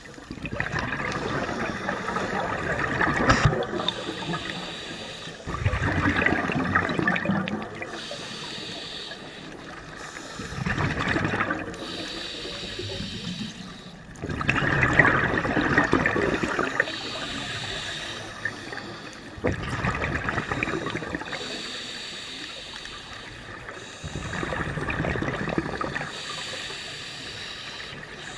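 Scuba diver's exhaled bubbles rushing and gurgling past the camera in bursts every four to five seconds, in time with breathing through a regulator underwater.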